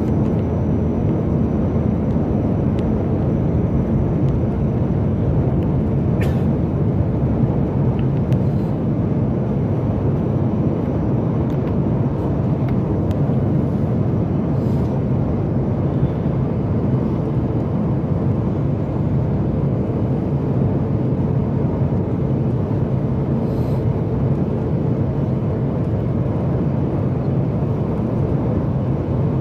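Steady cabin noise of a Boeing 737 MAX 8 in flight on descent: the low, even rush of airflow over the fuselage and its CFM LEAP-1B engines, with a few faint ticks.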